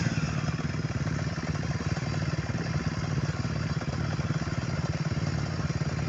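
Motocross motorcycle engine idling steadily as it warms up.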